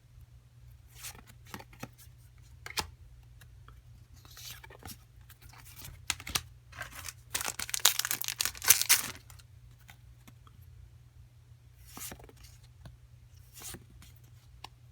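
Foil Pokémon booster pack being torn open and crinkled, loudest about halfway through, amid scattered light clicks and rustles of cards being handled.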